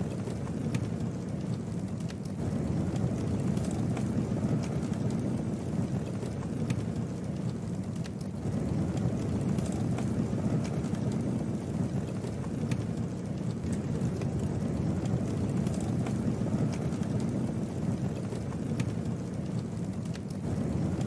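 Campfire burning: a steady low noise of the flames with scattered sharp crackles and pops from the burning wood.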